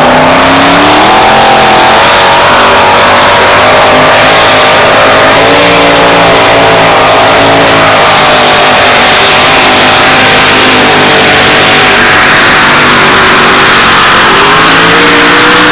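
Two-wheel-drive pulling truck's engine running at full throttle down the track during a pull, its pitch wavering and then rising near the end.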